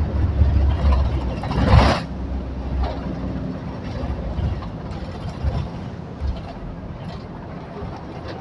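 Low rumble and noise of a moving vehicle heard from inside, with a loud rushing burst about two seconds in, then settling to a quieter steady noise.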